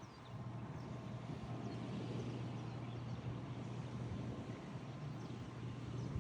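Outdoor ambience with a steady low hum underneath and a few faint, short, high bird chirps scattered throughout.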